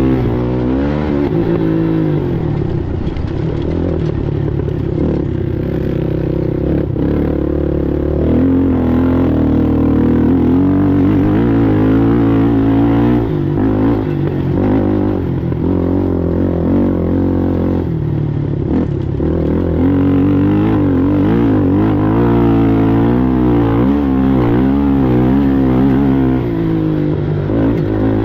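ATV engine running hard, its pitch rising and falling over and over as the throttle opens and closes, with rattling and the odd knock over it.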